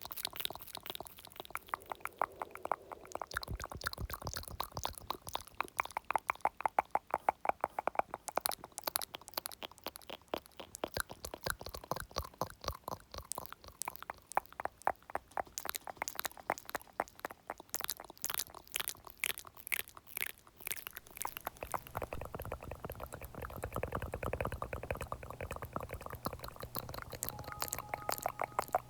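Close-miked ASMR mouth sounds: rapid, wet clicking and smacking, several clicks a second without pause. A low steady hum joins in for the last few seconds.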